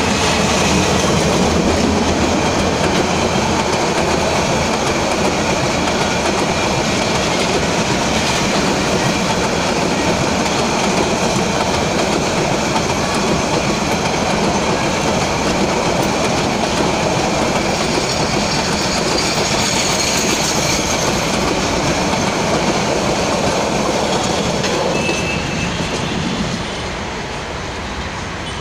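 Diesel-hauled passenger train passing close by: the locomotive's engine at first, then a long rake of coaches rolling past with their wheels running over the rails in a steady loud rush. The noise drops away about three-quarters of a minute's worth of passing later, near the end.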